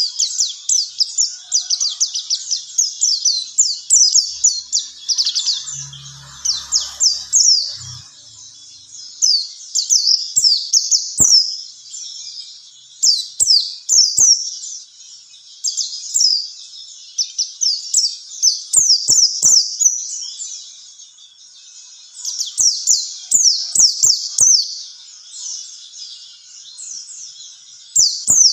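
A white-eye (pleci) singing: a fast, high twittering run of short downward-sweeping chirps, coming in bursts with brief pauses between them.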